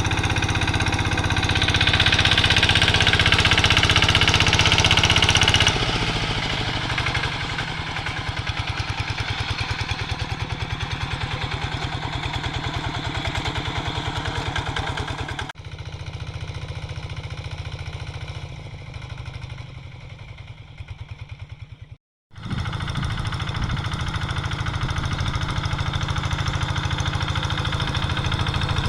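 Single-cylinder diesel engine of a Quick G3000 two-wheel hand tractor running under load while plowing dry ground, with a steady rapid beat. It is loudest in the first few seconds, drops suddenly about halfway through, and cuts out for a moment about two-thirds of the way through before running on.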